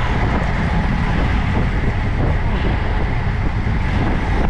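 Steady rushing wind on the microphone of a camera riding along on a road bike, with a deep rumble of road noise.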